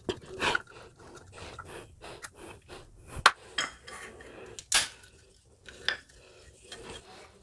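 Metal tools clinking and knocking against a plastic water tap while its head is unscrewed to take out the plastic spindle assembly. Scattered small clicks and scrapes, with sharper knocks about half a second, three, five and six seconds in.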